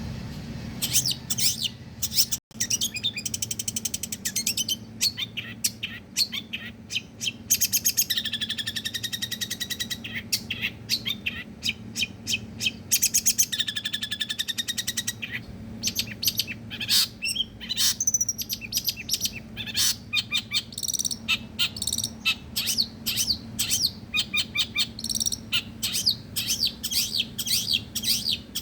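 Long-tailed shrike singing a rapid, unbroken run of varied chattering and whistled notes, with a longer whistled phrase about eight seconds in.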